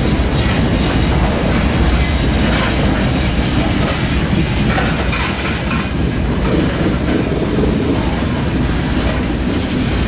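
Loaded coal cars of a freight train rolling past close by, their steel wheels running on the rails with a steady rumble and clickety-clack over the rail joints.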